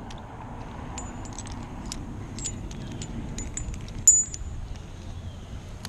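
Metal climbing and rigging hardware, such as carabiners and rings, clinking and jingling in a string of sharp, ringing clicks, the loudest about four seconds in.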